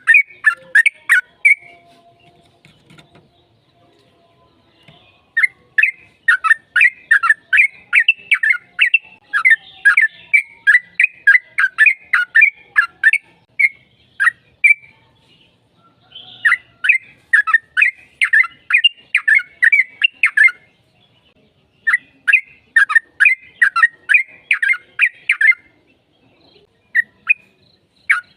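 Yellow-vented bulbul singing long runs of rapid, sharp notes in several bouts, with pauses of one to two seconds between them.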